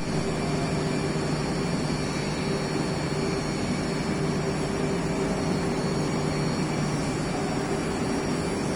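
Yilmak RF 130 industrial drum washing machine running a wash: a steady mechanical drone with a low, even hum.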